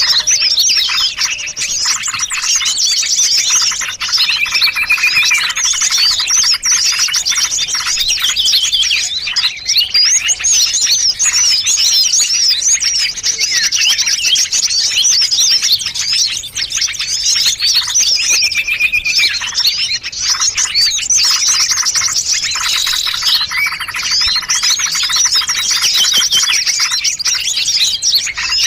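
A dense, unbroken chorus of many small songbirds chirping and twittering over one another, with a few short even trills among them: a mixed bird-luring (pikat) recording made to draw small birds in.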